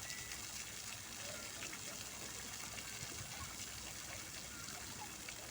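Fountain water splashing and gushing steadily.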